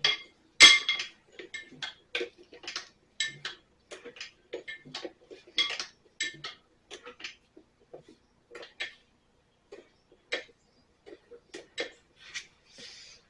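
Metal tools and engine parts clinking and tapping irregularly as they are handled, with short ringing clinks and one sharp clank near the start.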